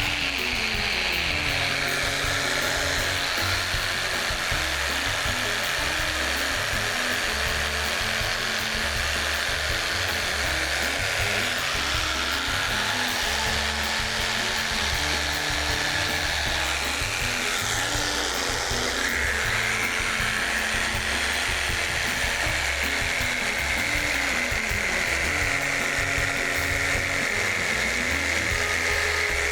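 A small power tool whines steadily while trimming foam on a seat cushion, its pitch shifting now and then as it cuts. A background music track with a repeating bass line plays along.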